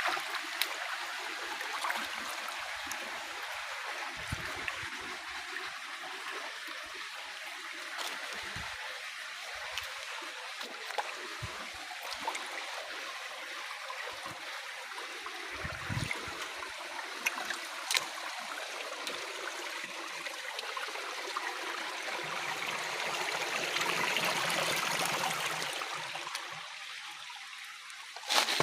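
Flowing water of a hill stream at a waterfall: a steady rushing with scattered small clicks and splashes, swelling a little louder near the end.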